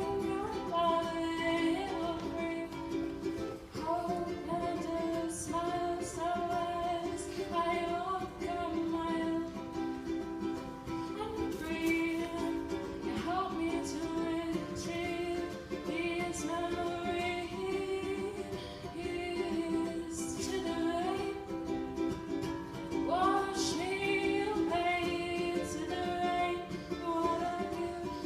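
A woman singing live, accompanied by a plucked acoustic string instrument.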